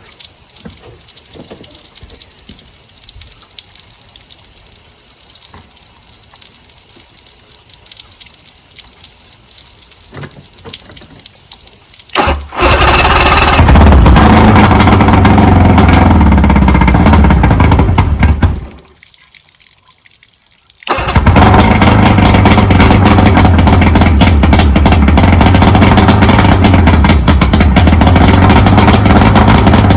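Water hissing quietly from the flush hose, then the 2001 Mercury 115 four-cylinder two-stroke outboard starts about twelve seconds in and runs. It cuts out for about two seconds, then starts again and runs steadily, fairly well now that the loose spark plug wire is back on.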